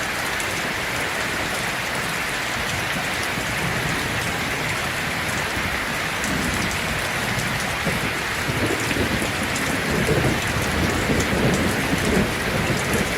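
Heavy rain falling steadily on a tin roof, a dense hiss with fine patter, while a low thunder rumble rises from about halfway and grows louder toward the end.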